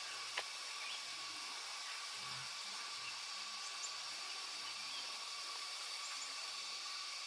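Quiet outdoor ambience: a steady hiss with a faint high hum, a single sharp click about half a second in, and a few faint high chirps.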